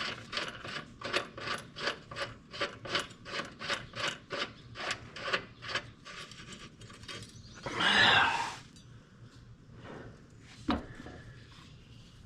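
Ratchet wrench clicking in quick back-and-forth strokes, about three a second, working a mower blade bolt, stopping about six seconds in. A brief louder rush of noise follows near eight seconds, then a single sharp knock.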